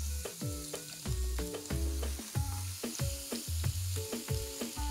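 Marinated chicken skewers sizzling as they are laid into hot oil in a non-stick frying pan. The sizzle is a steady hiss under background music with a regular bass beat.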